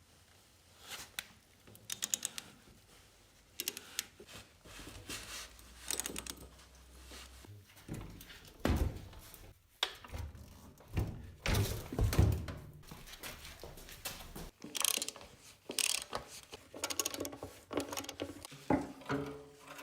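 Tools and metal motorcycle parts being handled, with irregular clinks, knocks and thunks; a few short ringing metallic notes near the end.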